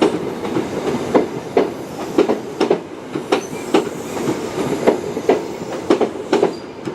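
High Speed Train (InterCity 125) coaches rolling slowly past, their wheels clicking over rail joints in pairs, about two clicks a second, over a steady wheel rumble.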